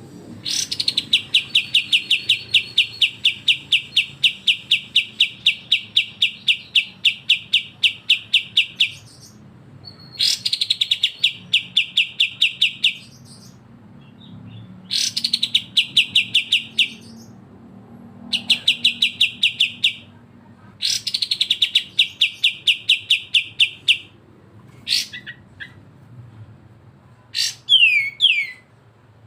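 Songbird singing a rapid chattering trill of evenly repeated high chirps in bouts of a few seconds each, the first lasting about eight seconds, the songbird-keepers' 'besetan' used to train other birds. Near the end come a few short notes and quick falling whistles.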